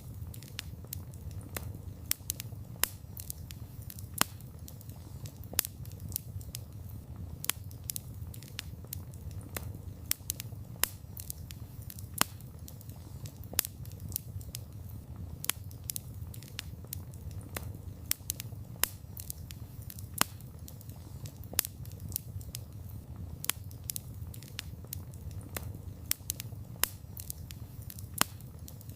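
Wood campfire burning, with a steady low rumble of flame and irregular crackles and sharp pops several times a second.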